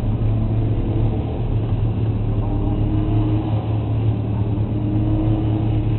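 A racing sports car's engine running at a steady, loud pitch.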